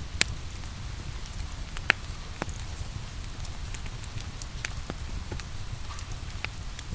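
Wood fire crackling with scattered sharp pops over steady rain, with a low rumble underneath. The two loudest pops come just after the start and about two seconds in.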